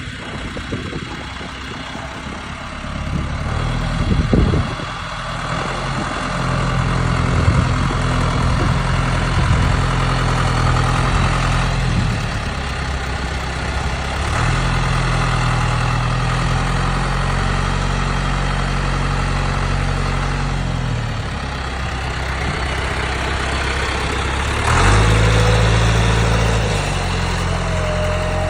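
John Deere 1830 tractor's diesel engine running, its speed rising and falling several times, with a loud knock about four seconds in.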